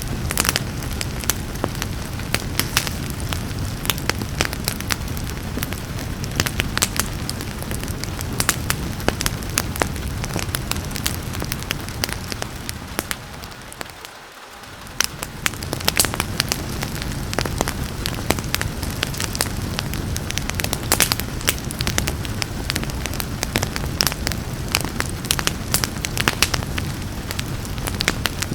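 Wood fire crackling, with frequent sharp pops and snaps over a steady hiss of rain. About halfway through, the sound briefly fades down and swells back up.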